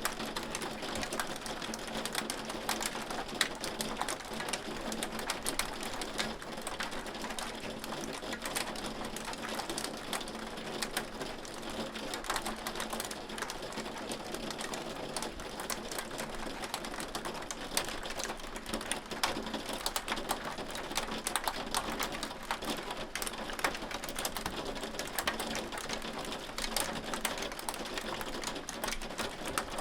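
Hail falling steadily: a dense, even patter of many small clicks from hailstones striking.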